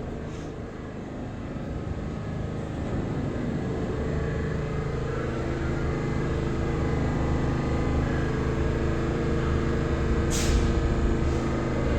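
New York City subway train at a station platform: a steady hum of its motors and onboard equipment with several held tones, growing gradually louder, and a short hiss of air about ten seconds in.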